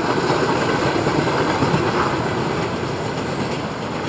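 Open-top freight wagons of a freight train rolling past on the track, the wheel and rail noise slowly fading as the last wagons go by.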